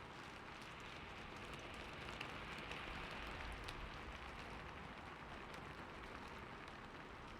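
Soft, steady rain falling on hard city surfaces, an even hiss with scattered drop ticks, swelling slightly a couple of seconds in.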